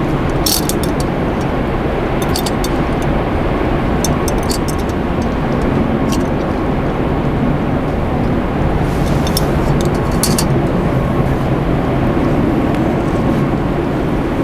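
Steady, loud rushing noise that never lets up, with a few faint sharp clicks at times.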